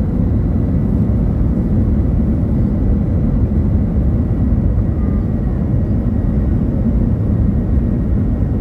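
Steady low drone inside an airliner cabin: jet engines and airflow running evenly with no change.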